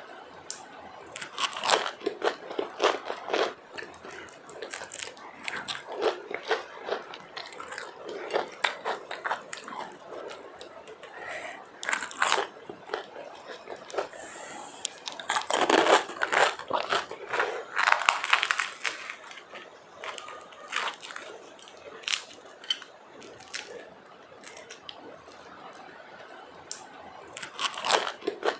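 Close-miked eating: crunchy bites and wet chewing of Indian street food, in irregular bouts of crackling crunches with quieter chewing between.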